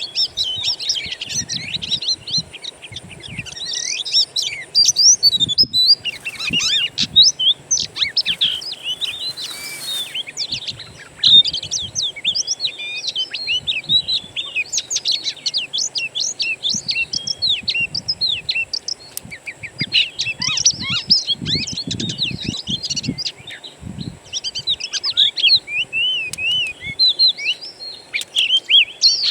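Dense chorus of wild songbirds: rapid overlapping chirps, whistles and short trills that never pause, the kind of wild-bird recording played to coax oriental magpie-robins into song. A faint steady high tone runs beneath.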